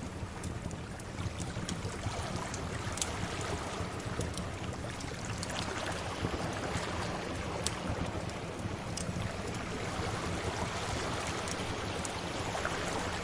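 Sea waves washing on a shore in a steady rush, with scattered sharp pops and crackles of a wood fire every second or so.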